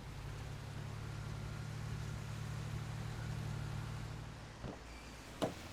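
Car engine running steadily with a low hum, with two short knocks near the end.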